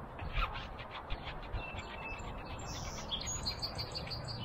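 Small birds chirping and whistling in short repeated notes, over a steady low outdoor rumble.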